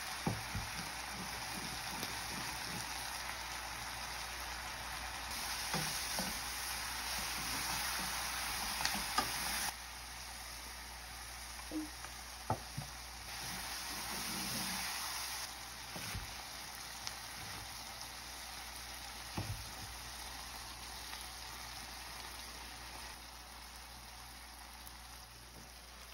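Duck bulgogi sizzling as it is stir-fried in a frying pan, with a few sharp knocks of the cooking utensil against the pan. The sizzling eases after about ten seconds.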